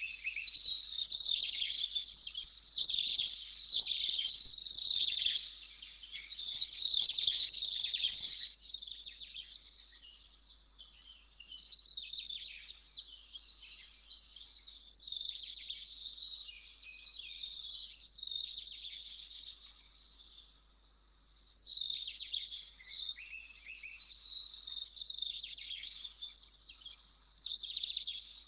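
Small birds chirping and twittering continuously, many overlapping high calls; denser and louder for the first eight seconds or so, then thinner and quieter.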